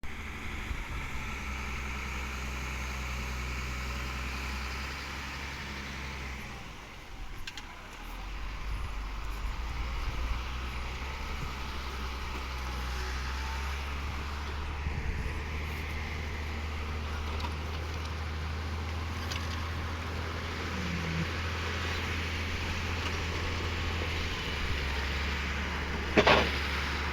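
Truck engine running with a steady low drone that dips briefly about a quarter of the way through. There is one short, sharp knock near the end.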